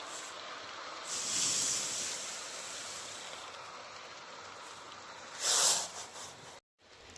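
H0-scale model train with an SU45 locomotive running, heard as a steady hiss with a short, louder hiss about five and a half seconds in. The sound cuts out briefly near the end.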